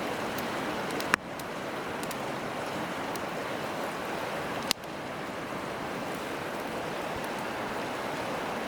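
Steady rushing of a river, with two sharp pops of burning wood in a campfire: one about a second in and one near the middle.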